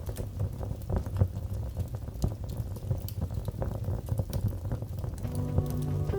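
Wood fire crackling in a fireplace: scattered sharp pops and snaps over a low rumble of flames. Soft sustained music tones come in near the end.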